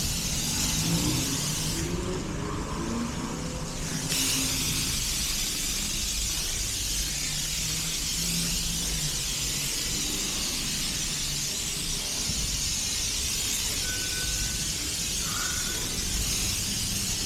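Car wash high-pressure spray wand hissing as the car is washed. The spray cuts out for about two seconds near the start and then resumes. A car engine runs low underneath.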